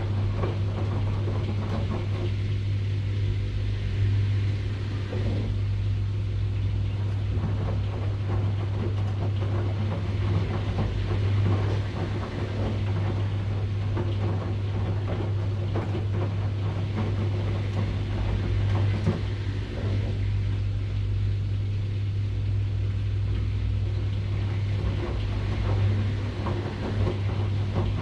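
Washing machine running: a steady low hum with a hiss that slowly swells and fades above it and scattered faint ticks.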